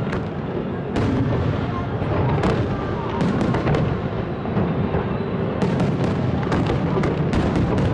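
Fireworks display: a continuous rumble of distant detonations with many sharp bangs and crackles on top, coming thick and fast for the last couple of seconds.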